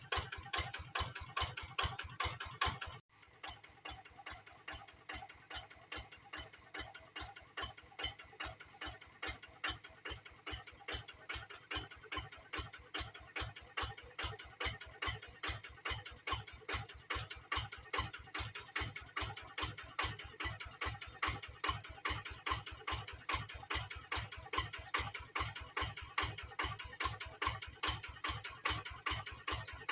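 Kubota diesel engine running with an even, rapid ticking beat of a few strokes a second. The sound drops suddenly in level about three seconds in, then carries on steadily and more quietly.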